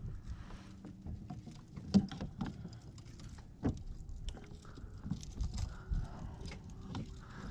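Irregular knocks and taps on a kayak over a low rumble, the sharpest knock about two seconds in.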